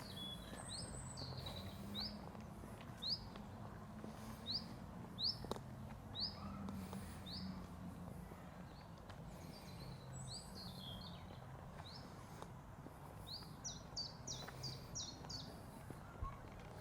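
Small songbird calling outdoors: short, high, falling notes repeated about every half second, then a quicker run of them near the end, over a faint low steady hum.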